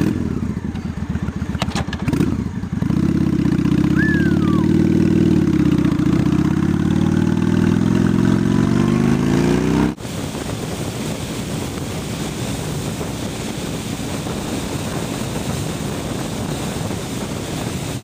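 Honda Shadow 750's V-twin, just started, blipped a couple of times, then running steadily and rising in pitch as it pulls away through its Cobra aftermarket pipes. About ten seconds in it cuts off abruptly to a steady rush of wind noise.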